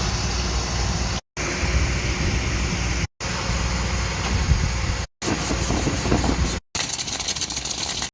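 Dryer vent cleaning equipment running with a steady, loud machine noise, heard as five short clips cut together. The last clip is hissier, with a fast flutter in the hiss.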